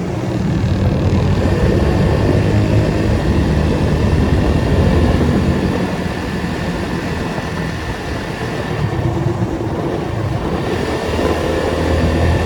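Datsun 280Z's straight-six engine running as the car moves in traffic, louder for the first half, easing off around the middle, then picking up again near the end.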